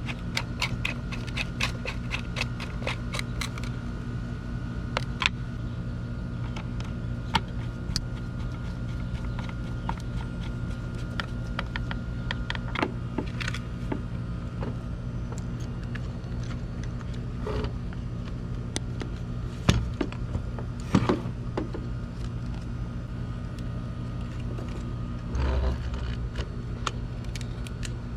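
A steady low mechanical hum runs throughout, with scattered sharp clicks and small knocks of plastic and metal trimmer parts being handled, a quick run of clicks in the first few seconds and a few louder knocks about two thirds of the way in.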